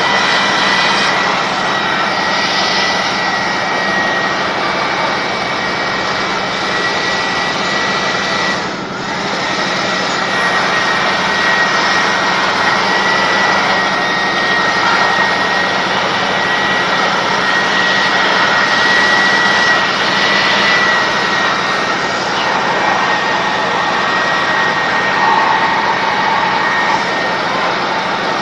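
Electric air blower running steadily with a high whine, blowing dust out of a note counting machine. The noise dips briefly about nine seconds in.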